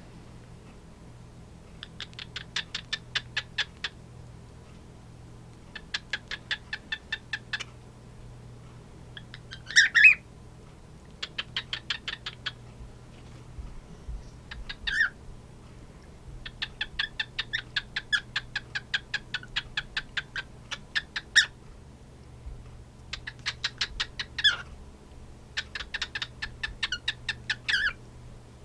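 Two male cockatiels clicking and whistling: repeated runs of rapid clicks, about ten a second and a couple of seconds each, traded back and forth. Short gliding whistle notes come between the runs, the loudest about a third of the way through.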